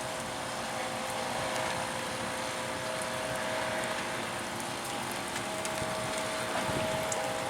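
A motor running steadily with a constant hum, under an even rushing noise.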